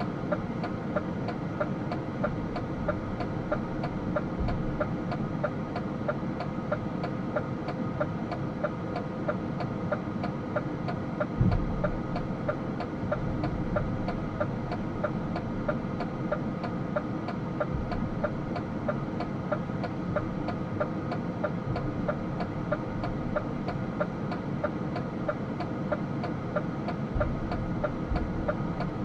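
DAF truck's diesel engine running steadily while driving, with a regular light ticking about twice a second. One low thump sounds about a third of the way in.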